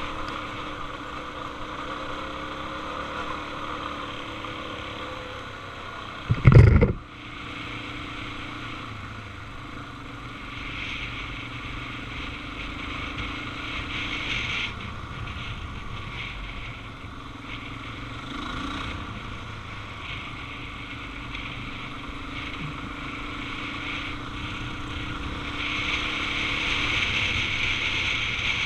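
Suzuki DR-Z400 single-cylinder four-stroke engine running steadily while the motorcycle is ridden, with wind rushing over the microphone. About six and a half seconds in there is one short, loud thump, the loudest moment of the stretch.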